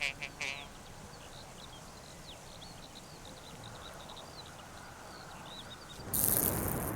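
Faint outdoor nature ambience with many small, high, arched chirps of small birds. The last croaking calls end in the first half second, and a louder rushing hiss starts about a second before the end.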